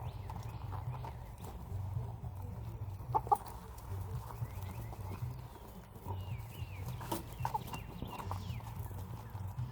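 Backyard chickens clucking as they feed, with short scattered calls, the loudest about three seconds in, and a few higher chirps in the second half.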